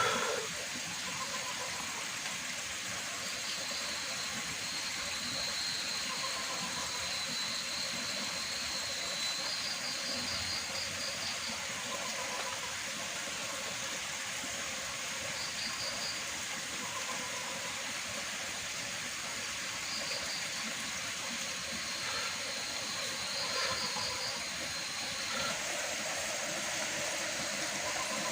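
Steady heavy rain, an even rushing hiss, with a thin high trill coming and going several times.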